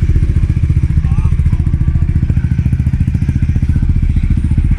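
Car engine running steadily close by, its exhaust giving a loud, even stream of low pulses.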